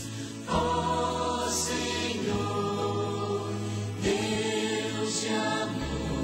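Background music: a choir singing slow, held chords, a new chord starting about half a second in and another about four seconds in.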